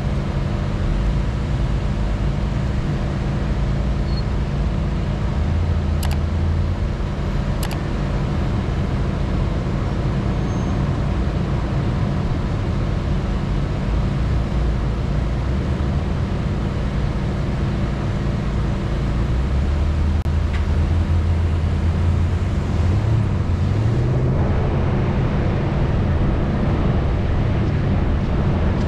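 Off-road vehicle engine running steadily with a low rumble and ride noise, two short sharp clicks about six and eight seconds in, and the noise growing rougher near the end.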